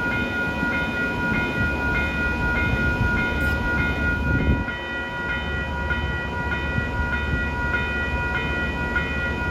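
Railroad grade-crossing bell ringing with even, rapid strikes, about three a second, over the low rumble of a train.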